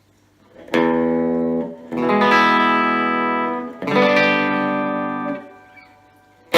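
Epiphone Casino hollow-body electric guitar through a Vox AC15C1X amp's Top Boost channel, with three chords strummed and left to ring, each about a second or more long, starting about a second in. A low steady hum sits underneath.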